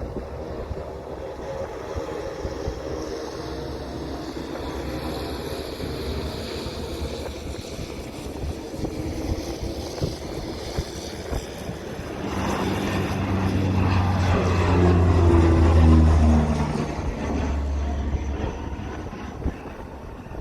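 An aircraft passing close by. Its engine noise swells from about two-thirds of the way in, peaks with a strong low drone, and fades near the end, over a steady background of wind and airport noise.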